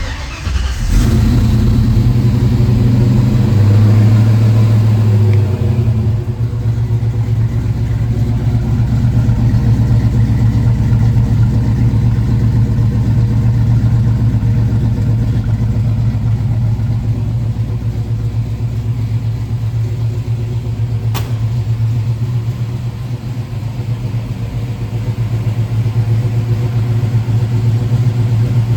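A 1968 Mustang GT's 302 V8 with Holley Sniper fuel injection cold-starting after months unused, catching almost at once. It runs at a higher fast idle for the first few seconds, then settles to a steady idle.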